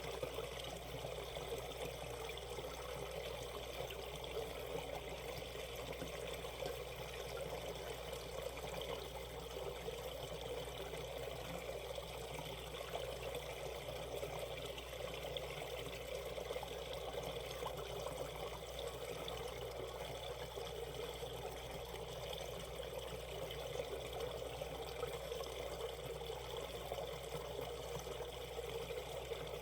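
Shallow valley stream flowing over rocks: a steady sound of running water.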